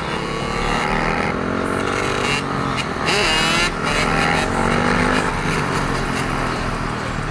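Dirt bike engines revving, more than one running at once at different pitches, rising and falling, with a louder rev about three seconds in.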